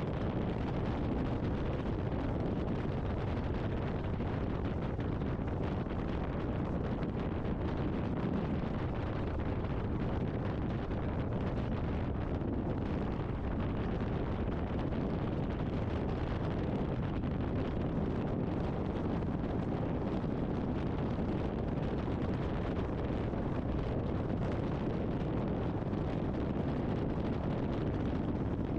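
Steady wind rush and road noise on a motorcycle helmet com-unit microphone while riding, with no distinct engine note.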